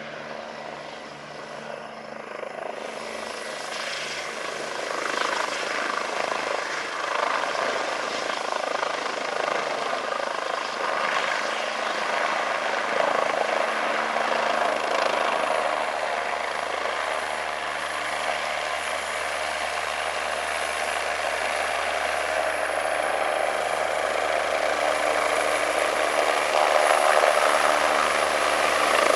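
Eurocopter EC-145 helicopter running, its twin Turbomeca Arriel turboshaft engines giving a steady high whine over the rotor noise, growing gradually louder.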